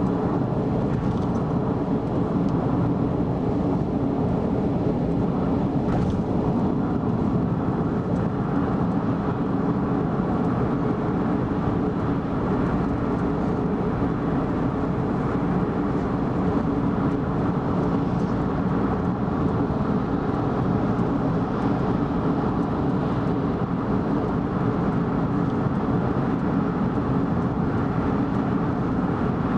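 Steady road and engine noise of a car cruising on an expressway: an even low rumble with no change in pitch or level.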